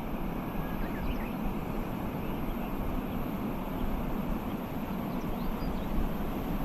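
Steady low rumbling outdoor noise, with a few faint high bird chirps about a second in and again near the end.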